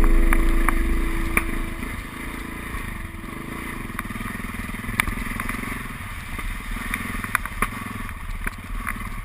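Trail motorcycle engine running, a low steady rumble with scattered sharp clicks and knocks. A held music note fades away over the first two seconds.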